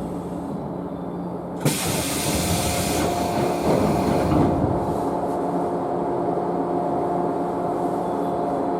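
A thump and a sudden burst of compressed-air hiss about one and a half seconds in, lasting over a second and fading, from a JNR 113 series electric train stopped at a station, typical of its pneumatic doors closing before departure. A steady hum with a held tone runs under it and carries on afterwards.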